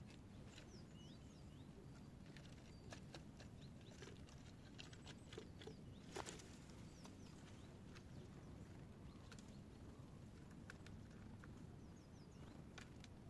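Squirrel tapping and stamping its paws on wood in faint, irregular taps, one sharper knock about six seconds in, with a few short high chirps. The paw-tapping is the sign of an agitated, indignant squirrel.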